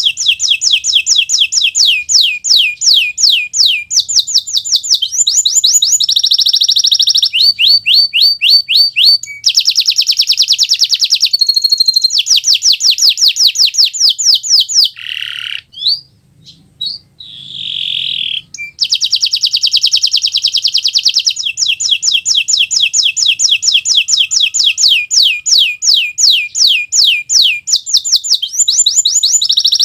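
Domestic canary (Kenari Nusantara) singing energetically in long, rapid trills of repeated sweeping notes, with a short break of scattered lower notes about halfway through.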